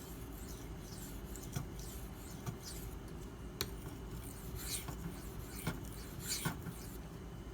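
Maxamet steel knife blade stroked across a 400 grit Nano Hone sharpening stone: a series of short, faint, irregular scraping strokes, with one sharp tick about three and a half seconds in. The steel skates over the slick stone, burnishing and polishing the edge rather than cutting it.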